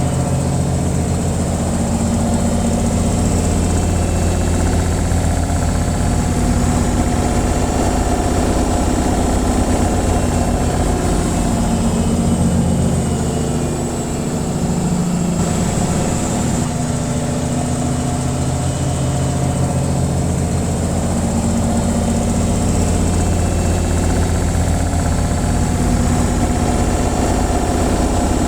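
Washing machine in its spin cycle: a steady, loud mechanical drone with a deep hum, dipping briefly about halfway through.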